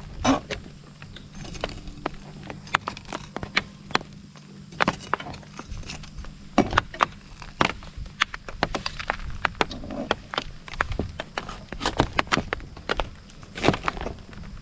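Irregular sharp clicks and knocks, spaced unevenly, over a low steady hum.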